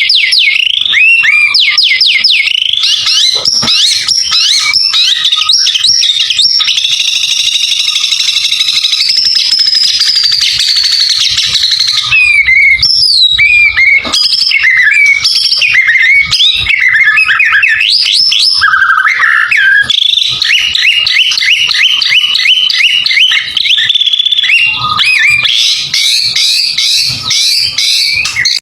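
White-rumped shama singing in full song: a loud, unbroken run of rapid trills, chattering rattles and clear whistled phrases that change pitch constantly.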